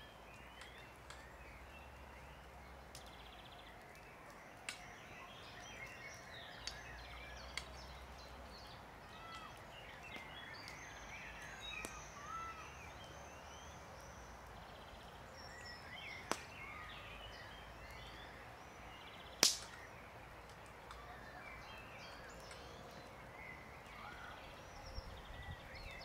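Birds chirping and calling over a faint outdoor hiss, with a few sharp clicks scattered through, the loudest about twenty seconds in.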